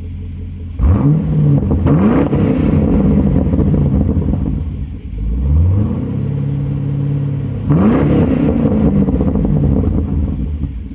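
2009 Pontiac G8 GT's V8 through a Solo Performance axle-back exhaust, idling and being revved: quick blips about a second and two seconds in, a slower climb held for a couple of seconds midway, another sharp blip near the end, then settling back to idle.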